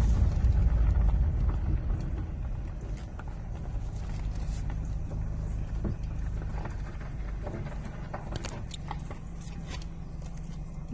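Low rumble of a motor vehicle, loud at first and dying down over the first two seconds, then a quieter steady low rumble with scattered light clicks.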